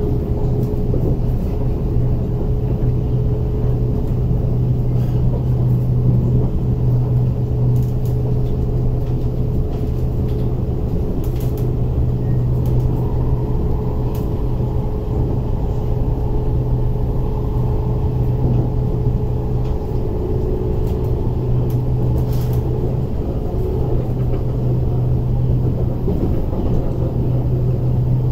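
Interior running noise of an MTR East Rail Line SP1900 (IKK) electric train cruising at speed: a steady low rumble with a strong hum and a fainter steady tone, and a few faint clicks from the track. The tone weakens about twenty seconds in.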